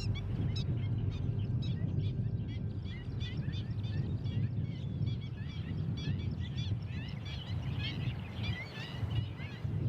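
Many small birds chirping and calling at once, short rapid chirps overlapping all through, over a steady low rumble.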